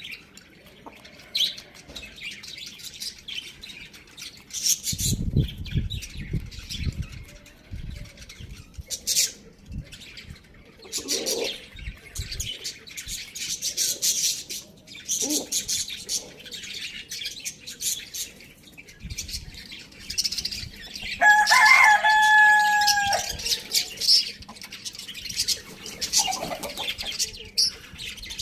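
Chickens making scattered short calls and chirps, with one rooster crow of about two seconds roughly three-quarters of the way through.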